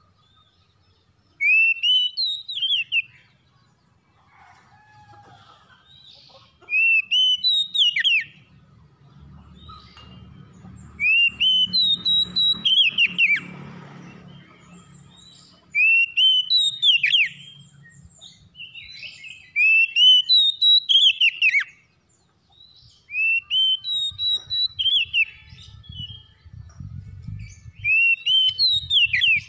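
Oriental magpie-robin (kacer) singing: short phrases of clear, sweeping whistled notes, each lasting a second or two and repeated every few seconds, about seven times. A faint low rumble sits underneath at times.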